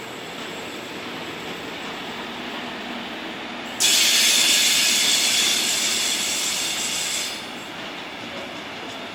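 Train wheels rolling on the rails, with a loud high-pitched hissing squeal from the wheels on the rails that starts suddenly about four seconds in and dies away after about three and a half seconds.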